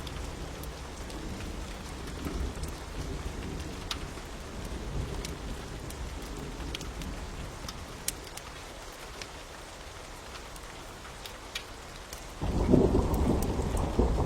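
Steady rain with scattered sharp crackles of a fire. About twelve seconds in, a low roll of thunder comes in suddenly and is the loudest sound.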